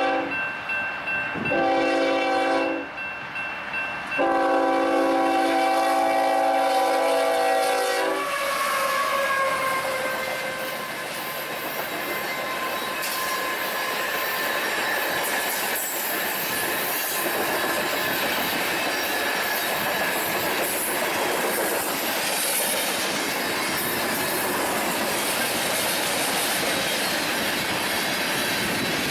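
Union Pacific locomotive air horn sounding a short blast and then a long one, its chord dropping in pitch as the locomotive passes. Then the train rolls by with a steady rush and clickety-clack of wheels on the rail joints.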